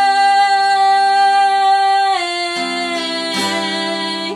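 A female voice holds a long sung note over acoustic guitar, stepping down in pitch about two seconds in. A guitar strum comes about three and a half seconds in. Then the voice stops at the end and the guitar is left ringing.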